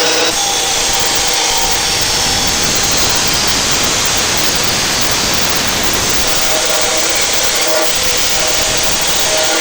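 A power tool running steadily under load, a loud even noise with no break.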